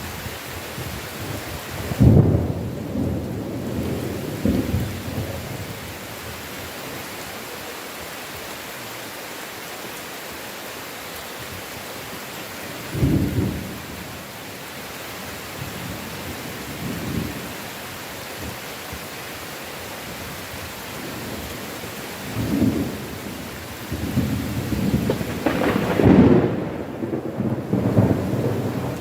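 Heavy rain falling steadily with thunder: a loud clap about two seconds in, a shorter rumble near the middle, and a long rolling rumble building near the end.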